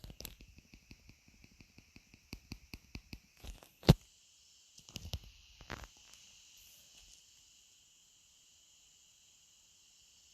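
Light clicks and taps, with one loud knock about four seconds in, over a steady high-pitched chirring that starts suddenly with a click at the start.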